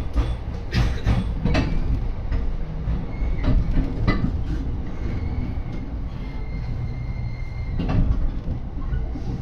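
Yokosuka Line commuter train heard from inside the carriage: a steady low rumble of the running gear, with sharp wheel knocks over rail joints, several early on and one about eight seconds in. A faint thin squeal of the wheels is held for a few seconds in the middle.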